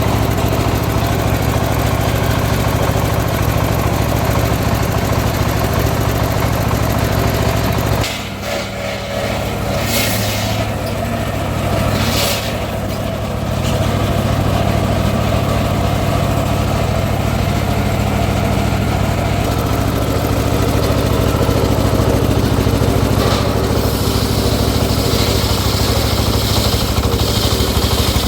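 Engine of a homemade circular sawmill running steadily. About eight seconds in, the level dips briefly and the pitch shifts. Near the end a brighter, hissing sound joins in.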